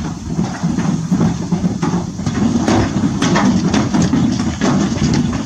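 A herd of wild horses galloping: many hoofbeats running together into a continuous, dense pounding.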